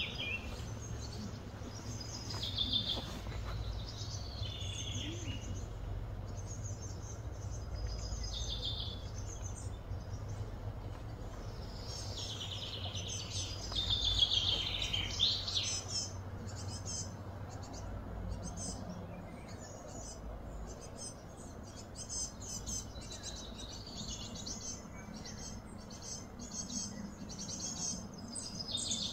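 Birds chirping and calling, a scatter of short high chirps and quick falling notes, busiest in a run about halfway through, over a steady low hum.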